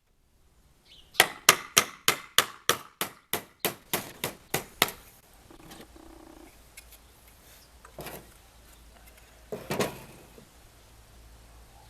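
Hammer striking a nail into wood: a quick, even run of about fourteen blows, roughly four a second, then a couple of softer knocks near the end.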